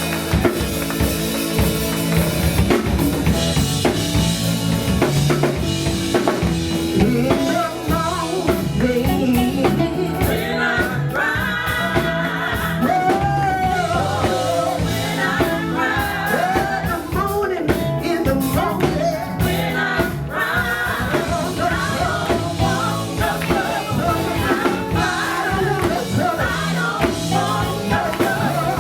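Live church band music with a drum kit and singing, the voice coming through most strongly from about ten seconds in.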